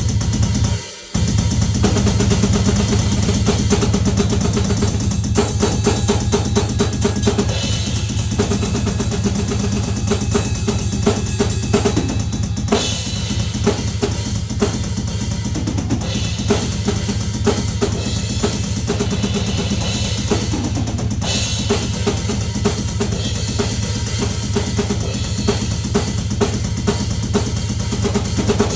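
Drum kit played fast and continuously, with a dense run of bass drum and cymbal strikes; it starts abruptly and breaks off briefly about a second in.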